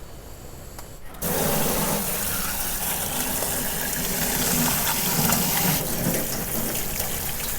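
Water running or pouring in a steady stream. It starts suddenly about a second in and keeps going.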